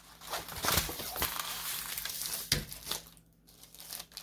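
Plastic packaging crinkling and crackling as it is handled and pulled at to get it open, with a few sharp crackles, quieter near the end.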